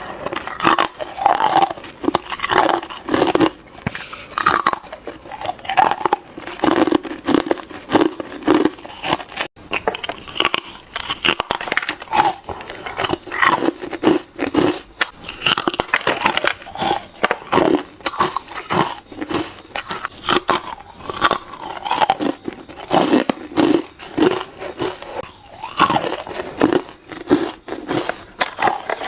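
A person biting into hard ice, one crunching bite after another, about one or two a second, close to the microphone.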